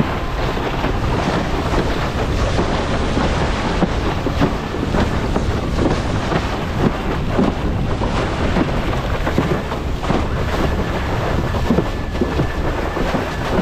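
Wind buffeting the microphone over rushing water and irregular slaps of chop against a hydroplane-hull windsurf board as it sails along.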